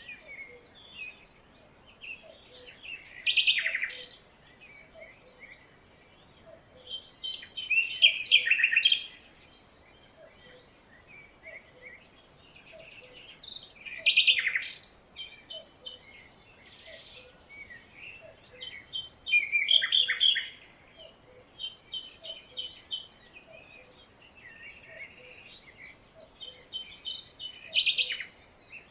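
Several jungle birds singing: short high trilled phrases repeating throughout, and about every five to six seconds a louder, harsher rattling call. Under them a faint low note repeats about once a second.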